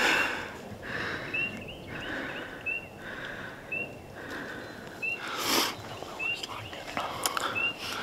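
A small songbird repeats a short, high, upward-slurred note seven times, evenly spaced a little over a second apart, over wind noise in the trees. About five seconds in there is a brief louder rush of wind or rustle.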